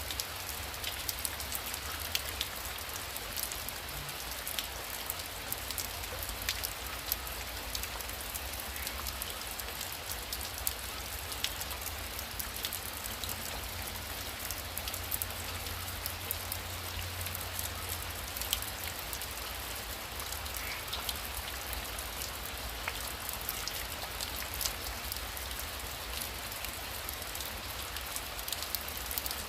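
Heavy rain falling steadily: an even hiss with many sharp ticks of individual drops striking.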